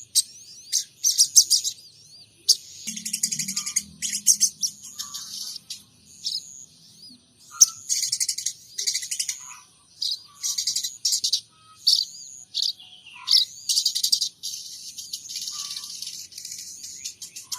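Sogon trotol songbird singing a busy run of short, high chirps and rapid trills in repeated phrases with brief pauses, working in calls copied from munias and house sparrows.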